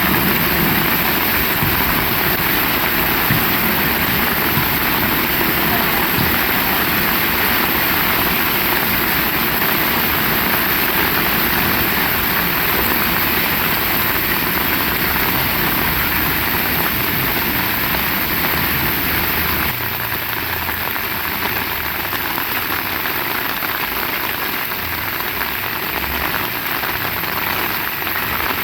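Heavy rain falling steadily, with a low rumble underneath that drops away abruptly about two-thirds of the way through, leaving the rain alone and slightly quieter.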